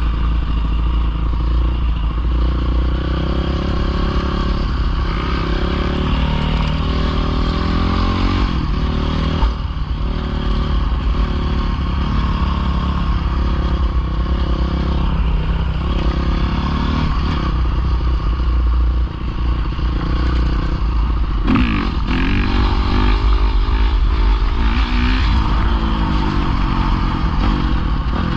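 Pit bike engine running and revving, its pitch rising and falling repeatedly as the throttle is worked.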